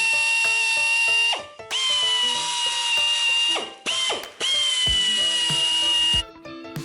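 A cordless power tool motor whines at one steady high pitch in four runs. Each run starts with a brief dip in pitch, and the whine stops about six seconds in. Background music plays underneath.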